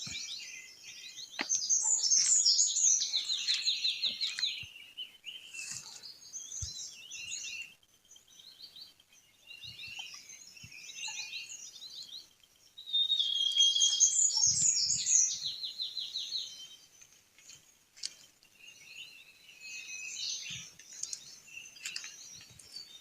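Songbirds chirping and singing. Two loud passages of quick, high trilled song come about two seconds in and again about thirteen seconds in, with softer scattered chirps between.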